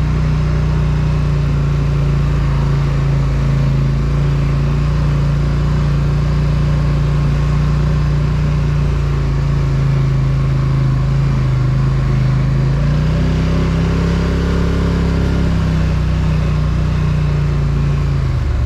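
Polaris Sportsman ATV engine running steadily, its pitch rising a little about two thirds of the way through and dropping again near the end.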